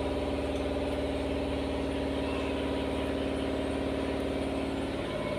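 Washing machine motor running with a steady hum, tested after its clogged drain was cleared.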